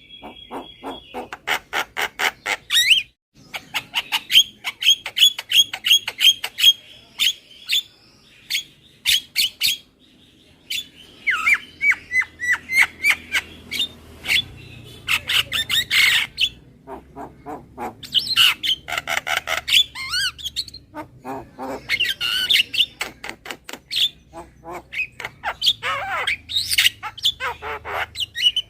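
Javan myna (jalak kebo) calling: rapid runs of harsh, chattering squawks and short whistled notes, delivered in phrases with brief pauses between them.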